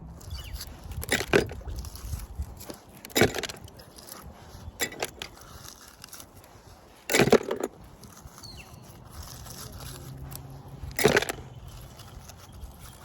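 Scattered knocks and clanks of scrap metal being handled on a kayak during magnet fishing: about five sharp strikes a couple of seconds apart, the loudest near the middle and near the end.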